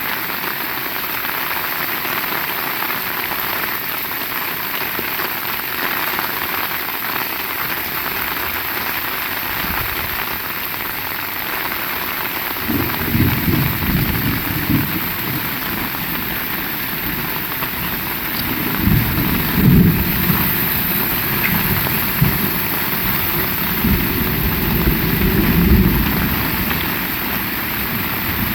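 Heavy rain falling steadily, with three low rumbles of thunder: one a little before halfway and two more in the second half.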